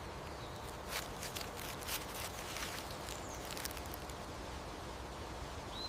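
European hedgehog foraging: faint rustling and soft scattered clicks and snuffles, as among dry leaves.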